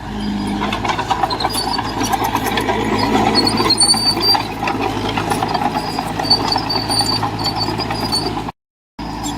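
Bulldozer working: its diesel engine runs steadily under a dense clanking rattle, with short high squeals coming and going. The sound cuts out completely for about half a second near the end.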